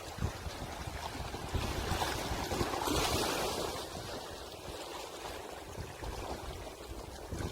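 Sea waves washing onto the shore: one wave swells to its loudest about three seconds in and draws back, over a low, uneven rumble of wind on the microphone.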